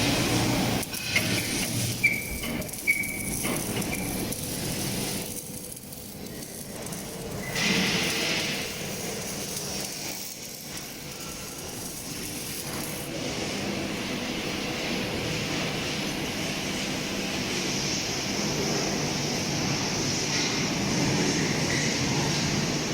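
Truck workshop noise: a steady hiss and hum with a few sharp metallic knocks in the first three seconds.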